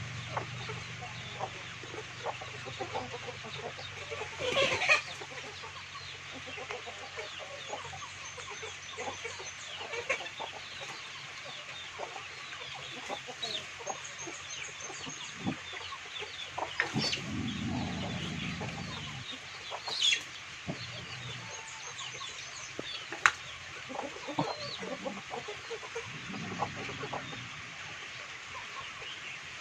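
Domestic chickens clucking and calling, with many small ticks and knocks scattered through. A louder burst of sound comes about five seconds in, and a single sharp knock near the end is the loudest moment.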